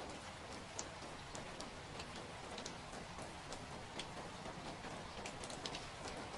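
Steady rain, with individual drops tapping sharply at irregular moments over a soft, even hiss.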